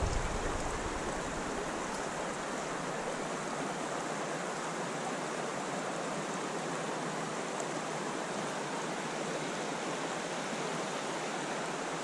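Spring creek water running steadily, an even rushing hiss. A low wind rumble on the microphone dies away in the first second or two.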